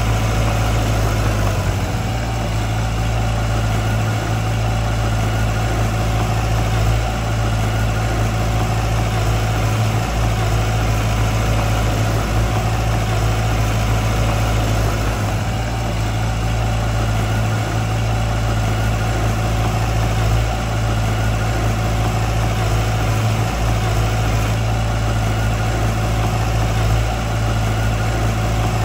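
Heavy construction machine's diesel engine running steadily at an even, low speed, with a strong low hum and no revving.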